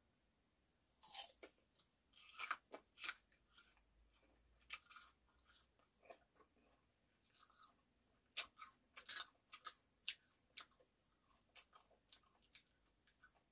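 Faint, irregular mouth sounds of someone chewing and biting into pieces of persimmon, with short wet clicks and smacks in clusters.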